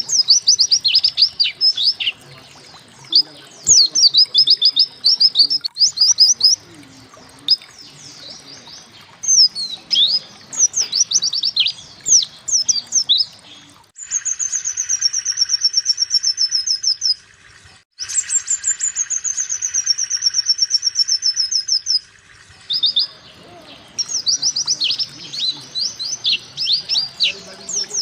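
White-eye (pleci) singing: bursts of quick, high chirps that each fall in pitch. Twice, about halfway through, there is a long, fast, even trill, each lasting about three to four seconds and starting and stopping abruptly, before the chirp bursts return.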